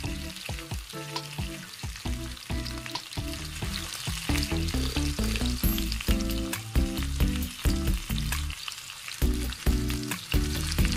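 Chicken pieces frying and sizzling in a pan in their own fat as the last of the boiling liquid cooks off and they start to brown, with many small pops. A tune of low notes plays underneath.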